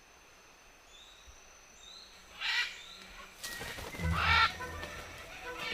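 Macaws squawking: a single harsh call about two and a half seconds in, then more calls from about three and a half seconds, the loudest about four seconds in.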